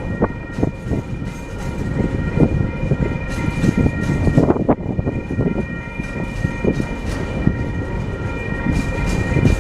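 TasRail freight train rolling past at close range: a heavy rumble with irregular clanks and knocks from the wheels and wagons, over a steady high whine.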